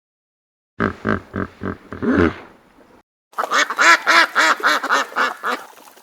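Waterfowl quacking in two runs: about six short quacks beginning about a second in, then a faster, longer run of about a dozen from about three seconds in.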